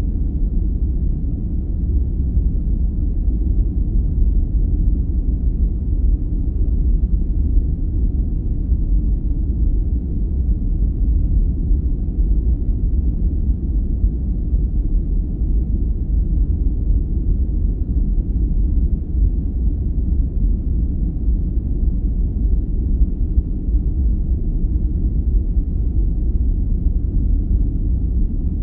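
Steady deep noise played for sleep: an even, low rumble-like hiss with almost no treble and no change in level.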